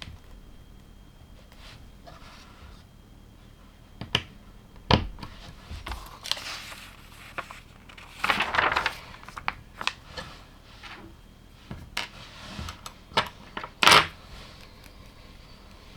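Plastic LEGO pieces clicking, knocking and rattling as they are handled and pressed together, with two longer rustling, scraping stretches in the middle and the sharpest click near the end.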